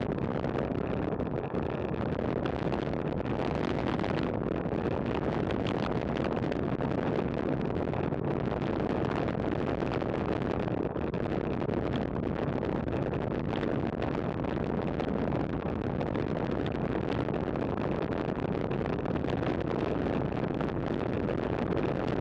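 Steady wind rush over a camera microphone riding along on a road bicycle at speed, mixed with road noise.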